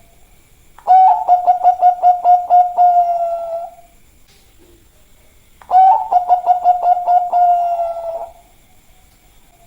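Zebra dove (perkutut, Bangkok song strain) cooing in two phrases a couple of seconds apart. Each phrase is a quick run of clipped notes that ends in a longer held coo.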